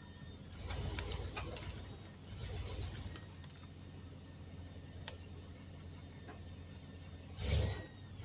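Homemade Doodlebug skidder's truck engine idling low and steady, swelling twice early on, with a few sharp clicks and a short louder burst near the end.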